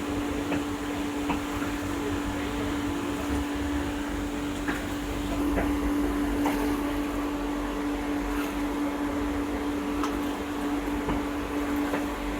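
A steady hum holding one low tone, over a noisy background with a few light clicks and knocks scattered through it.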